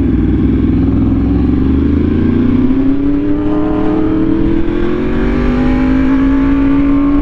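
Yamaha R1M's crossplane inline-four through an SC Project exhaust, pulling under load in a high gear, its note rising slowly and steadily as the bike accelerates.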